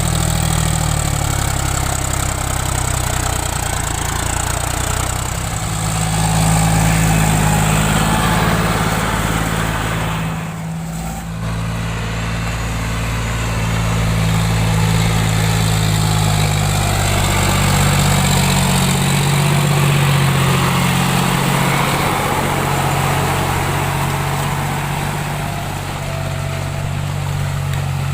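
John Deere 5050D tractor's three-cylinder diesel engine running steadily. Its note shifts up and down a few times as the load and throttle change, with a brief drop near the middle.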